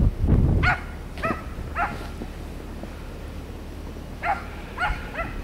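A dog barking: three short barks about half a second apart, then a pause and three more near the end.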